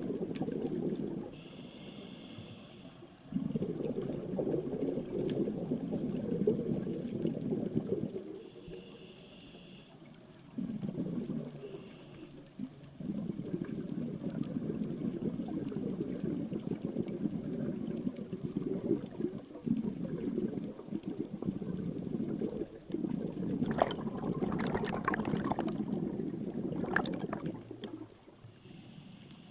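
Scuba diver breathing underwater through a regulator. Long bubbling rushes of exhaled air alternate with short, quieter inhalations that carry a faint hiss.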